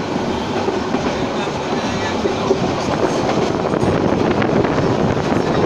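Passenger train running on the rails: a steady, loud rumble with a few clicks of the wheels in the second half.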